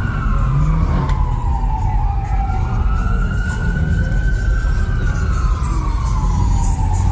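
Emergency vehicle siren wailing: one slow tone that slides down in pitch, climbs back up, then slides down again, over a steady low rumble of street traffic.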